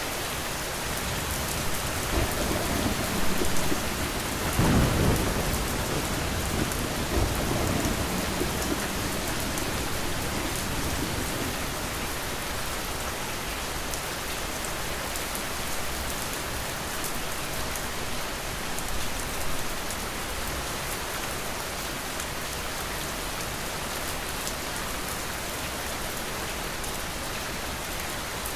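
Steady heavy rain pattering on a surface, with a low roll of thunder building a couple of seconds in, loudest about five seconds in, and rumbling away by about twelve seconds.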